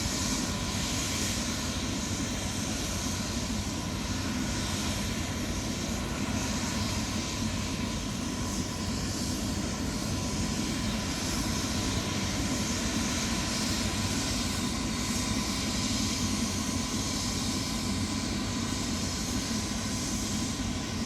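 Tour helicopters' turbine engines running steadily: an even, continuous rushing hum with a thin steady whine over it.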